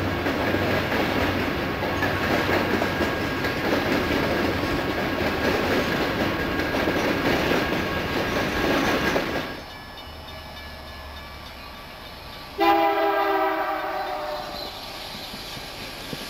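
Freight train of CSX covered hopper cars rolling past over a grade crossing: a steady rumble and clatter of wheels on rail. About nine and a half seconds in this cuts off to a quieter scene. A few seconds later an approaching locomotive's air horn sounds one blast of several notes at once, then fades.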